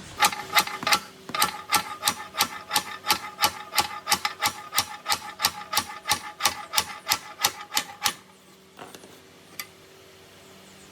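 Steady hammering on metal: sharp, ringing strikes at about three a second that stop about eight seconds in, followed by one or two light taps.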